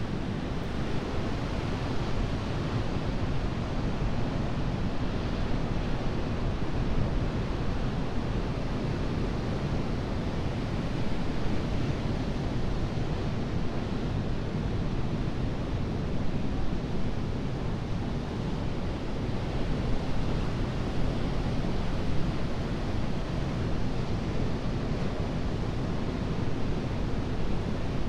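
Ocean surf breaking on a beach, a continuous wash of waves that swells and eases every few seconds, with a deep low rumble and some wind on the microphone.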